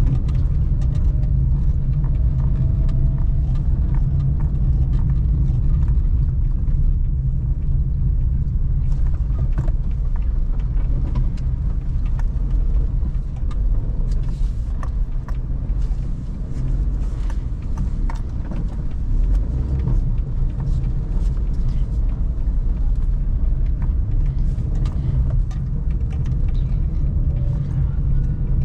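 Suzuki Celerio being driven through city traffic: a steady, low engine and road rumble, with scattered light ticks and knocks over it.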